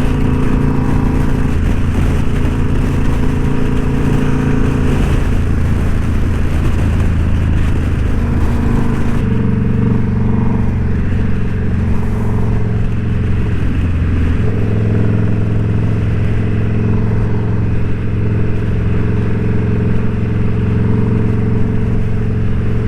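Indian Scout Bobber's V-twin engine running steadily on the road, its note shifting to a new pitch a few times.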